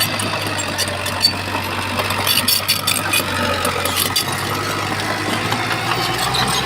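Bulldozer's diesel engine running steadily, with a cluster of short sharp clicks and clatter about two to three seconds in and again about four seconds in.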